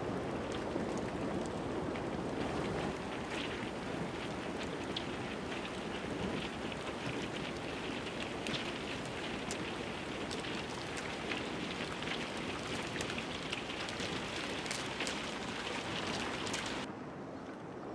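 Broken harbor ice grinding and crackling as a ship and tug push through it: a dense patter of small clicks and crackles over a steady rushing hiss. About a second before the end it changes abruptly to a duller, quieter sound.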